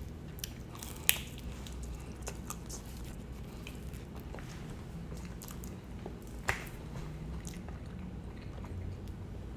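A person chewing food close to the microphone: quiet mouth sounds with scattered sharp clicks and smacks, the most distinct about a second in and about six and a half seconds in.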